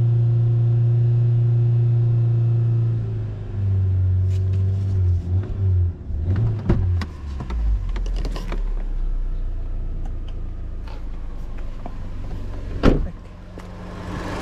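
Fiat Punto Evo's 1.2 FIRE four-cylinder engine held steady at raised revs, about 3000 rpm, to bring the car up to temperature and trigger the electric radiator fan while bleeding the cooling system. About three seconds in the revs are let down and settle to a lower hum. Scattered knocks and clicks follow, and there is one loud thump near the end.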